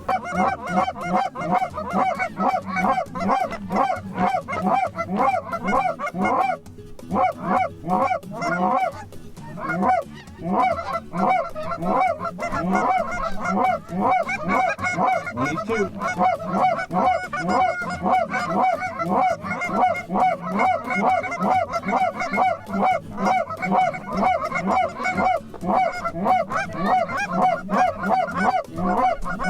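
Geese honking in a continuous rapid run of short calls, about three to four a second, with a couple of brief lulls.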